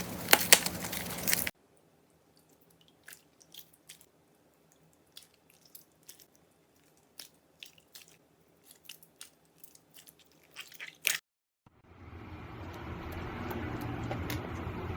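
Crunchy slime being squeezed and pressed, giving crisp crackling pops: dense and loud for the first second and a half, then only scattered faint crackles. After a short silent break about eleven seconds in, a steady hiss with a low hum takes over.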